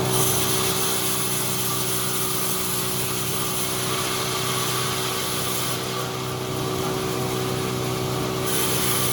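Powered sawmill saw running steadily. A high hiss from the cut runs for about the first six seconds, drops away, then comes back near the end.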